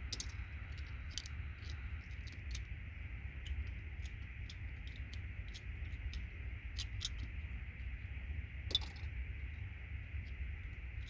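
Scattered small clicks and ticks as the metal contact pins of an RJ45 patch panel are bent back and its plastic connector parts are handled, over a steady low hum.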